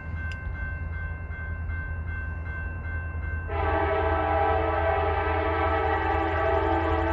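Diesel freight locomotive rumbling past, then about halfway through its air horn sounds a loud, held chord.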